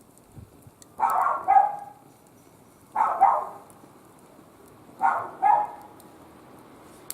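A dog barking in pairs, a double bark about every two seconds, three times.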